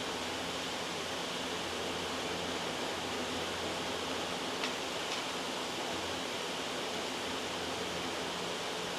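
Loud, steady white noise: an even hiss. Two faint clicks, about half a second apart, come near the middle.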